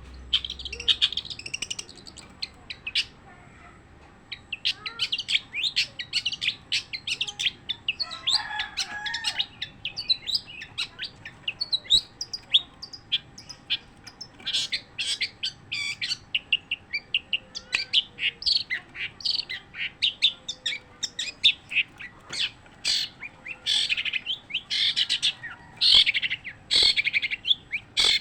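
Long-tailed shrike (cendet) singing without a pause: a long, rapid stream of short high chirps and twitters, with a lower, more tangled phrase about eight seconds in.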